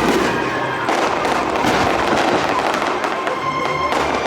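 Fireworks display: a dense, continuous run of bangs and crackling, with no break.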